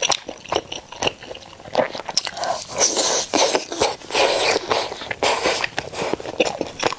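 Close-miked eating sounds of a person biting and chewing a roasted chicken-leg roll, with many short wet clicks and smacks.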